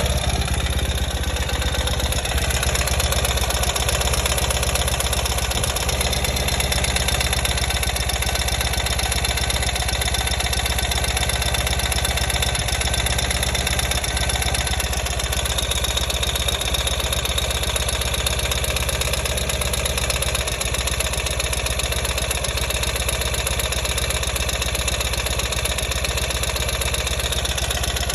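2020 Ural motorcycle's air-cooled flat-twin engine idling, heard through a stethoscope: a steady running sound, strongest in the low range.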